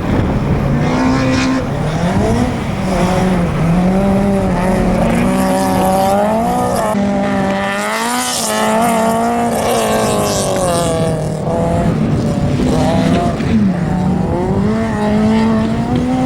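Citroën AX GTI's four-cylinder petrol engine driven hard on a slalom course, its pitch rising and falling every second or two as it accelerates and lifts off between gates.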